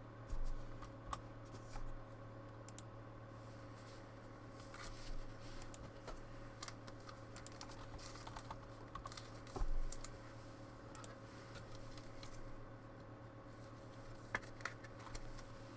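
Basketball trading cards being handled and sorted by hand: faint scattered clicks and scratches, with two louder knocks about half a second and ten seconds in, over a steady low hum.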